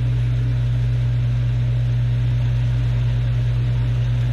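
Garbage disposal motor running with a steady, loud low hum, while the drain below is backing up with a P-trap full of ground peanut shells.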